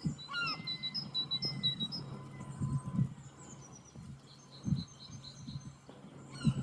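Songbirds singing outdoors: strings of short high notes and quick falling whistled slurs in the first two seconds, and again a little past halfway. Under them run repeated low thumps, the loudest of which come about three and five seconds in and near the end.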